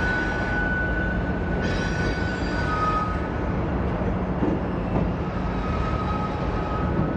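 Freight train rolling past: a steady rumble of wheels on rail, with thin high wheel squeals that come and go.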